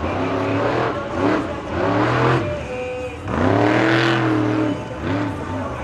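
Monster truck engine revving hard in repeated bursts, its pitch rising and falling with each stab of the throttle; the longest rev comes about three and a half seconds in.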